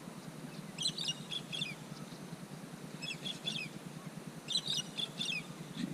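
A bird calling: a short phrase of quick, high chirping notes repeated three times, roughly every one and a half to two seconds, over a faint low background hum.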